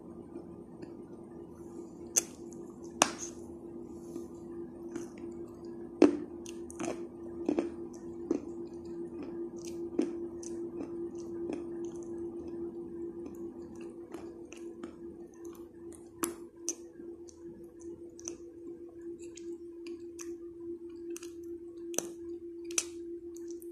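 Chewing chalk close to the microphone: irregular sharp crunches and mouth clicks, the loudest about 2, 3, 6, 16 and 22 seconds in. A steady low drone runs underneath.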